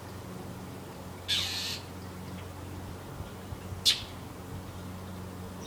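Mockingbird giving harsh scolding calls: a rasping call about a second in, then a single sharp chack near four seconds, over a steady low hum.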